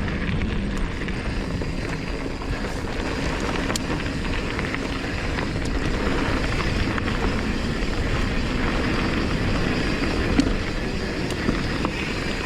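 Mountain bike riding fast down a dirt singletrack: a steady rush of wind and tyres rolling on dirt, with scattered sharp clicks and rattles from the bike.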